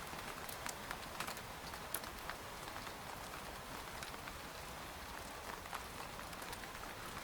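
Rain falling on a tent: a steady, even patter with scattered single drops landing sharply on the fabric.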